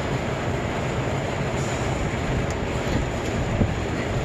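Steady machine noise, a continuous even drone with a low hum.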